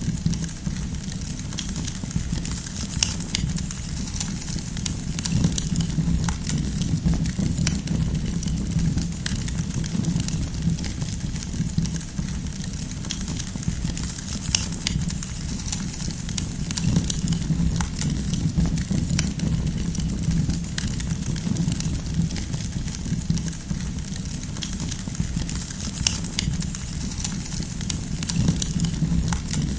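Wood fire burning with a steady low rumble and frequent sharp pops and crackles from the burning logs.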